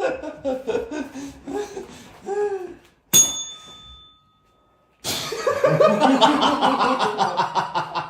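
People laughing, then a short bell-like ding that rings out for about a second, a brief silence, and a burst of loud, dense laughter.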